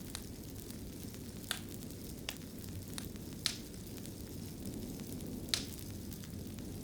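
Fireplace fire crackling: a steady low rumble of flame with sharp pops at irregular intervals, about six in all, the loudest about three and a half seconds in and again near five and a half seconds.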